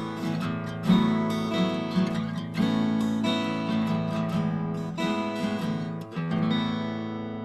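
Acoustic guitar in standard tuning strummed through the chant's chord shapes, about one strum a second, with only the third and fourth strings fretted and the rest ringing open. The last chord, a little past six seconds in, rings on and fades.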